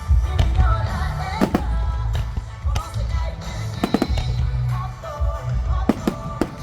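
Aerial fireworks bursting, with deep low booms and many sharp cracks and crackles, over music with singing.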